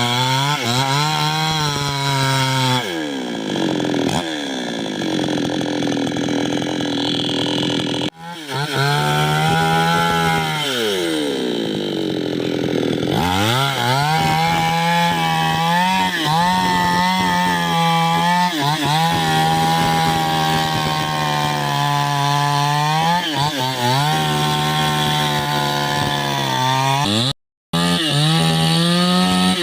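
Two-stroke chainsaw cutting into a large gmelina trunk. It runs at full throttle, and its engine pitch sags twice for a few seconds as the chain bogs down in the cut. The sound cuts out briefly twice.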